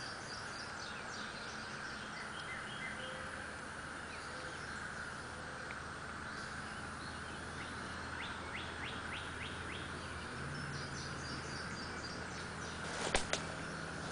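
Birds chirping over a steady outdoor hiss and faint low hum, with a quick run of about six chirps near the middle. Two sharp clicks come near the end.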